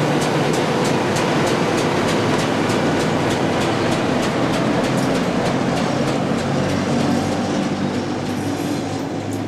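Slow-moving train passing close by: a diesel locomotive running, then refrigerated freight wagons rolling past with their wheels clicking over the rail joints about three times a second. The sound eases off a little near the end.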